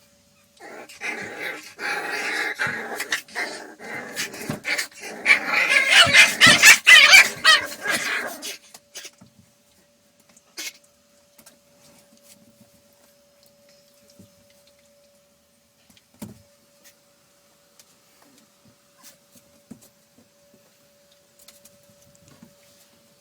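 Boxer puppies whimpering and yipping for about eight seconds, getting louder before stopping abruptly; afterwards only a few faint taps.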